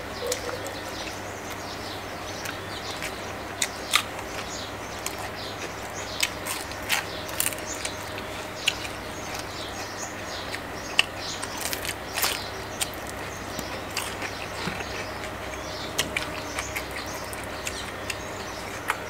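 Close-up chewing of crispy deep-fried salmon, with scattered sharp crunches and mouth clicks over a steady low hum. Birds chirp faintly in the background.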